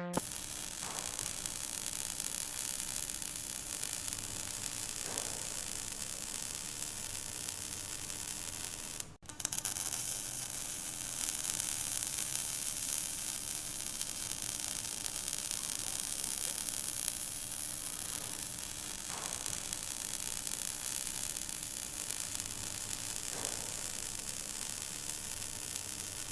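Stick welding arc burning steadily on a 7016 electrode: a continuous crackling hiss, cut off for a moment about nine seconds in.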